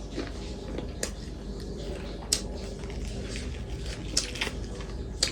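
A person eating close to the microphone, chewing and biting food, with about five short sharp mouth smacks or clicks.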